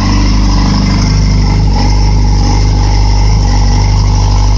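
2008 Yamaha R6 inline-four engine, out of the bike, running at a steady fast cold idle as it warms up, with no muffler fitted after the headers.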